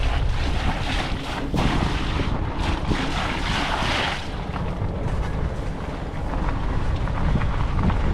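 Wind buffeting the microphone of a bicycle rider's camera while riding, a steady low rumble, with a hiss that swells about three to four seconds in, likely tyres on a wet road.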